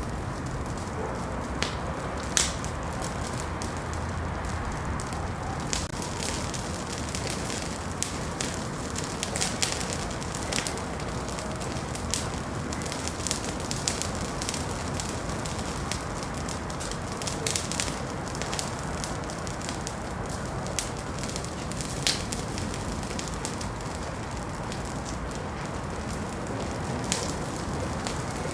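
Wood fire burning in a fireplace: a steady low rush of flame with irregular crackles and occasional louder pops.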